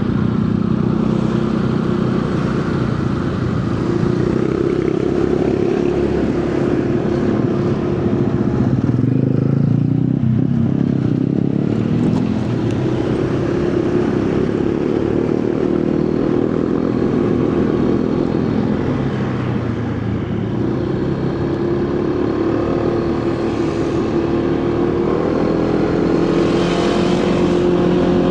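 Motorcycle engine running under way, its note dipping about a third of the way in and rising again near the end as the rider eases off and accelerates, with wind and road noise.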